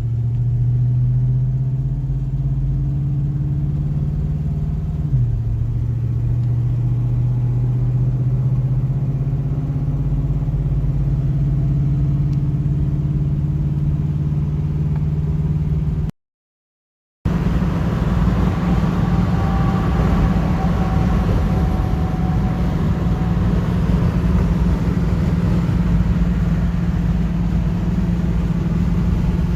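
1972 Chevrolet Nova's engine running as the car drives off, a steady drone with a brief change in pitch about five seconds in. Near the middle the sound cuts out for about a second, then the engine drones on at a higher, steady pitch with more road noise.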